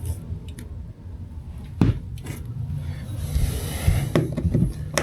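Hand work on a thick OSB wall panel: scattered clicks and knocks, with one sharp knock about two seconds in, then a stretch of scraping a second later.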